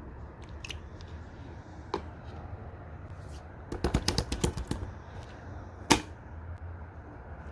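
Slime being pressed and squished by hand, giving scattered sharp clicking pops as air pockets burst, with a quick run of them about four seconds in and one loud pop near six seconds.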